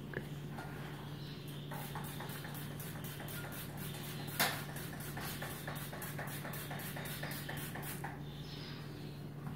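Rhythmic scrubbing strokes on a wall, about four a second for some six seconds, with one sharp knock about halfway through.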